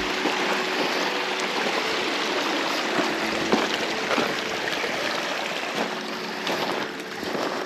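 Creek water running, a steady rush.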